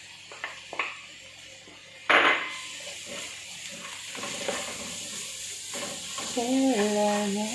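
Mushrooms dropped into a hot oiled pan of browned onion and garlic: a few light utensil clicks, then a sudden loud sizzle about two seconds in that settles into steady frying as they are stirred.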